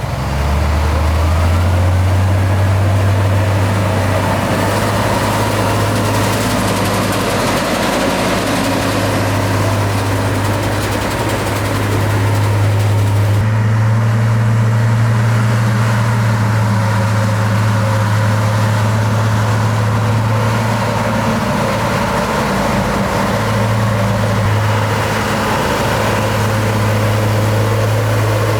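Heavy diesel engine of construction machinery running steadily at a low, even pitch. The engine note shifts slightly about halfway through.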